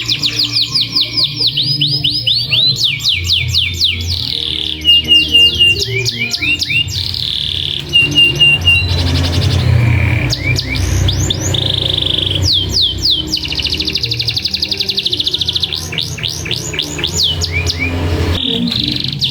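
Domestic canary singing long rolled trills of rapid, repeated downward-sweeping notes, broken now and then by short runs of sharp, high chips ('cuit cuit'), with a steady low hum underneath.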